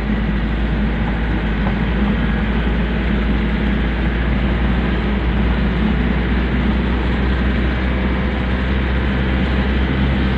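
Pick-up dump truck's engine running steadily, a constant low drone with road noise over it.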